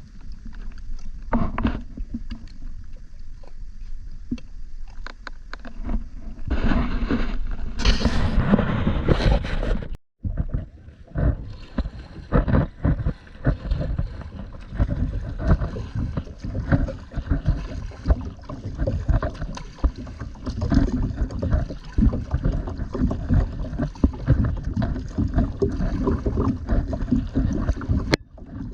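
Water splashing and sloshing around a kayak, with irregular knocks and low wind rumble on the microphone. A louder splashing stretch comes about 7 to 10 seconds in, then the sound cuts out for a moment before the knocking and sloshing go on.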